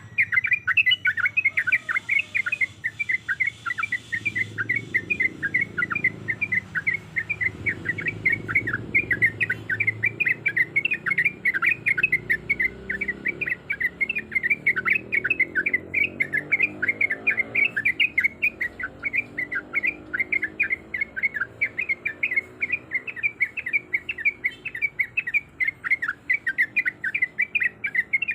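Yellow-vented bulbul (trucuk) singing a long unbroken 'ropel' run: rapid chattering notes, several a second, repeated without pause. It is the insistent calling song used as a lure to draw in rival bulbuls.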